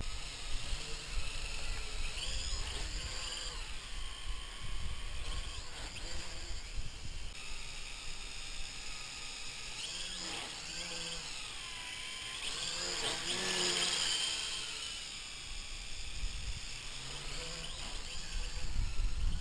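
MJX X101 quadcopter's motors and propellers whining as it flies, the pitch swooping up and down as the throttle changes. The sound is loudest a little past the middle.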